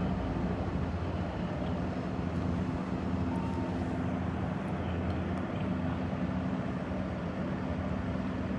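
Helicopter running with a steady low drone that holds at one pitch, no sudden changes.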